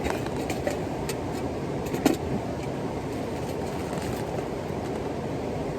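Steady rushing of a nearby waterfall, with a few faint clicks and one sharper knock about two seconds in.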